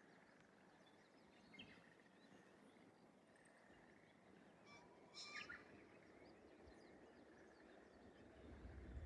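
Quiet rural outdoor ambience with faint distant birds: a short chirp about a second and a half in, and a brief, louder call stepping down in pitch about five seconds in. A low rumble comes in near the end.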